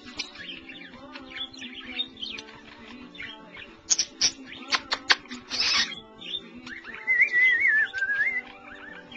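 Pet budgerigars chattering and warbling: quick sharp chirps and clicks, then a wavering whistled warble about seven seconds in. Music plays steadily underneath.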